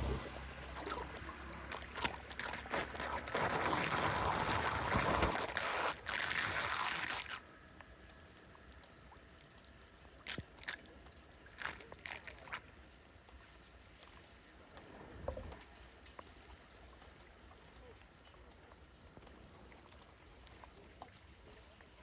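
Water rushing and sloshing, cutting off abruptly about seven seconds in; then faint flowing water with a few short splashes or knocks.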